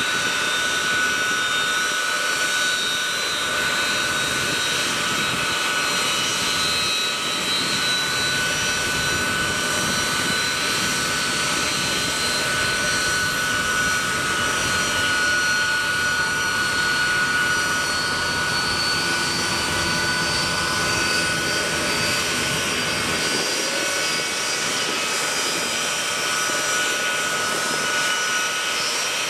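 Boeing C-17 Globemaster III's four Pratt & Whitney F117 turbofan engines running steadily: an even jet whine with held high tones over a broad rush of noise.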